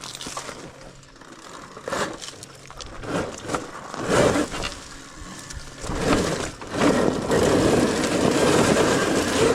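Rushing wind and trail noise from an electric dirt bike being ridden, with no engine note, coming in surges and getting louder and steadier about six seconds in.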